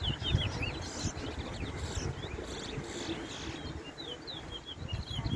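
Towa-towa songbird singing quick, twisting warbled phrases of high notes, loudest about the first second and again in the last couple of seconds, over a low rumble.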